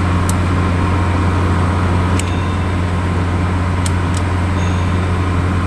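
A steady low machine hum with a noisy hiss over it, and a few light sharp clicks scattered through it.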